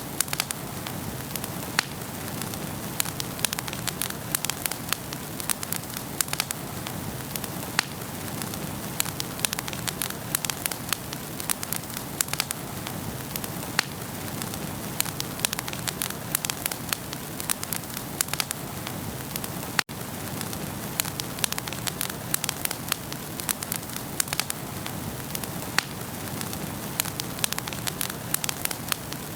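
Wood fire burning in a fireplace: a steady soft hiss with frequent sharp crackles and pops at irregular intervals.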